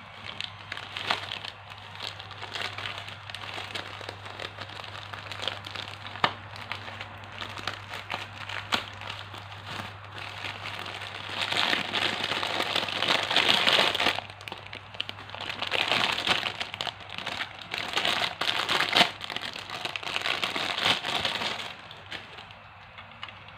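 Toy packaging being handled and opened: crinkling and rustling with small clicks and crackles, in louder stretches through the second half, stopping shortly before the end. A faint steady low hum lies underneath.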